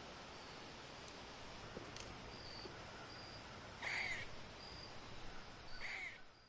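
Two bird calls about two seconds apart over a steady hiss, with faint short high peeps in between.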